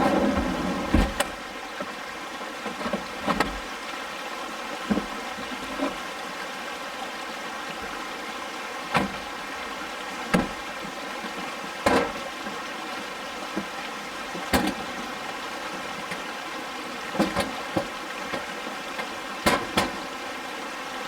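Scattered sharp clicks and knocks as a folding camp kitchen is unpacked and set up, about fifteen over the span, over a steady hum.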